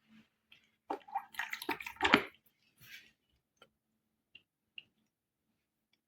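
Water splashing and dripping in a pet water fountain: irregular bursts of splashing for a couple of seconds, then a few single drips, over a faint steady hum.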